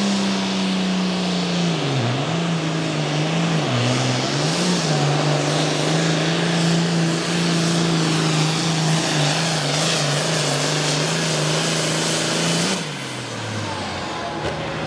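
Turbocharged diesel Super Farm pulling tractor running at full throttle as it drags the weight-transfer sled down the track. Its pitch sags briefly a few times in the first five seconds, then holds steady, and about thirteen seconds in the engine suddenly throttles back and winds down at the end of the pull.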